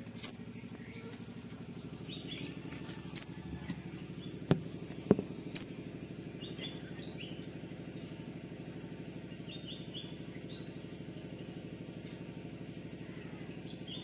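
A sunbird giving three loud, sharp, high chirps about two to three seconds apart, with softer short chirps between them and two small knocks around the middle, over a steady low hum.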